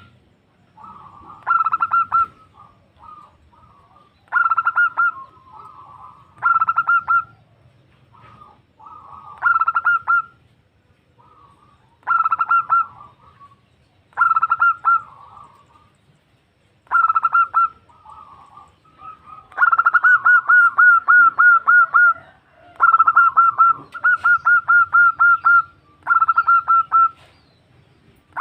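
Female zebra dove calling: short bursts of quick, repeated cooing notes, one burst about every two seconds, which run into longer strings of about ten notes about twenty seconds in.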